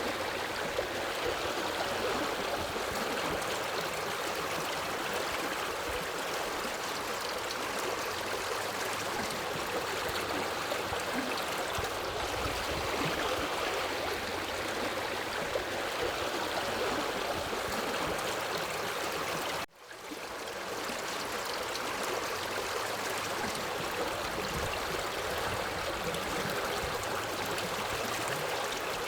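Forest river flowing steadily, a continuous rush of water. About two-thirds of the way through, the sound cuts out for an instant and fades back in.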